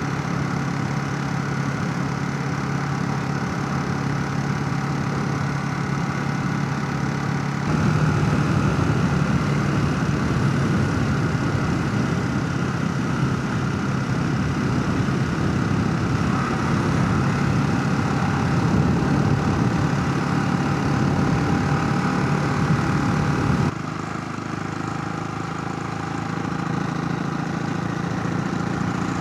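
Motorcycle engine running at a steady pace under way, heard from a helmet chin-mount camera with wind rush. About eight seconds in it suddenly gets louder and rougher, and near the end it drops back just as suddenly.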